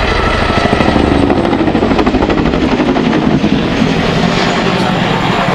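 RAF Boeing Chinook tandem-rotor helicopter flying a display, its twin rotors beating in a rapid, even thudding with turbine noise. The beat is strongest at the start, then blends into a steadier loud roar.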